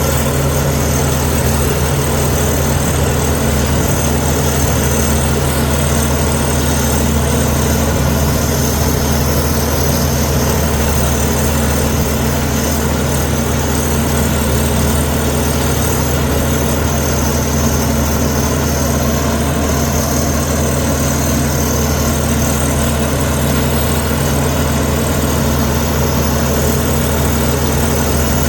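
Komatsu D61EX bulldozer's diesel engine running steadily at an even pitch and level, with no revving or changes.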